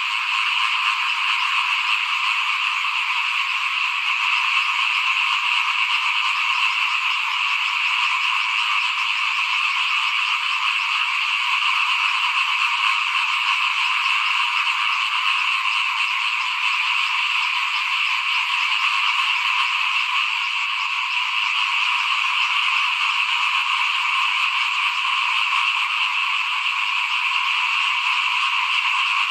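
A dense, steady chorus of many small frogs calling together, an unbroken high-pitched din with no pauses.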